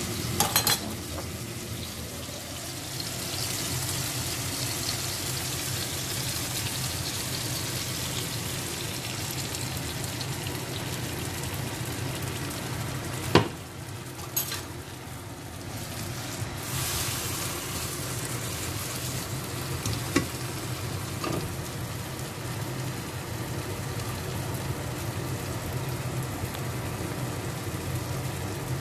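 Beaten eggs with chopped tomato and cucumber sizzling steadily as they fry in a frying pan. A few sharp clicks of a utensil come through: a quick cluster at the start, then single ones about 13 and 20 seconds in.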